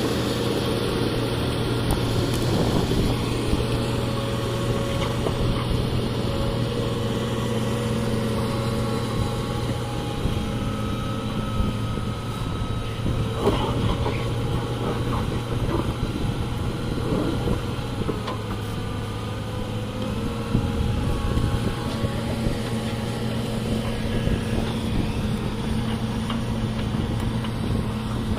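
A heavy diesel engine running steadily at an even pitch, with a few light knocks about halfway through.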